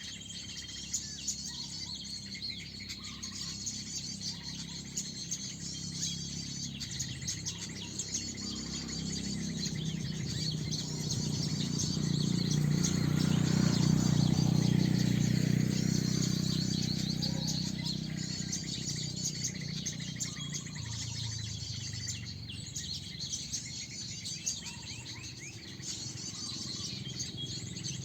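Many small birds chirping and twittering rapidly and high-pitched throughout. A low rumble swells and then fades in the middle.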